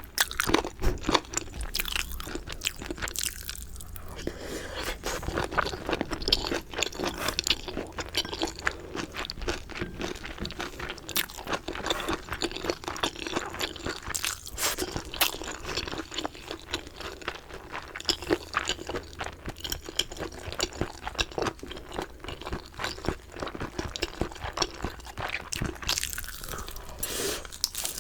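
Close-miked eating of crispy fried chicken: irregular crisp crunches of the coating mixed with wet chewing throughout.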